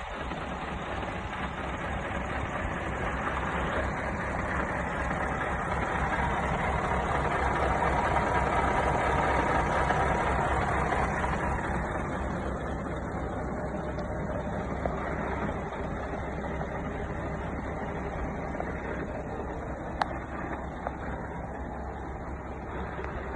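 Scania R730 truck's V8 diesel engine running steadily. It grows louder for about ten seconds, then eases back, with a short click about twenty seconds in.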